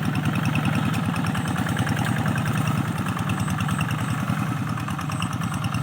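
Paddy-field tractor's engine running steadily with a fast, even chugging, easing slightly about three seconds in.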